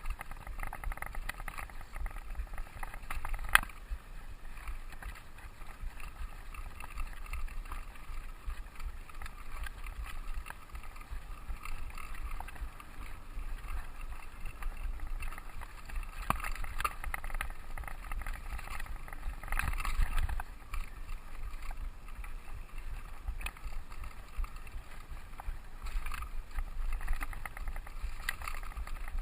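Mountain bike rolling over a dirt trail, with a constant rattle of small clicks over a low rumble. There is a sharp knock about three and a half seconds in, and a louder patch of rattling around twenty seconds in.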